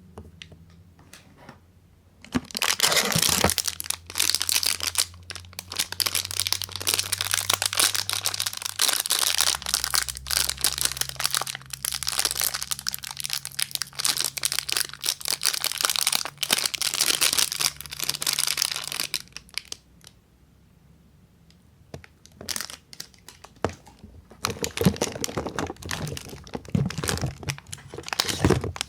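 Soap wrapper being crinkled and torn open by hand: dense crinkling from about two seconds in until nearly twenty, a short lull, then more crinkling and tearing near the end.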